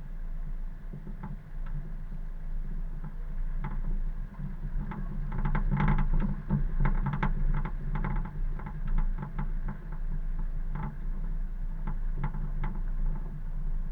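Car driving, heard from inside: a steady low drone of engine and road noise with many short clicks and knocks, busiest in the middle.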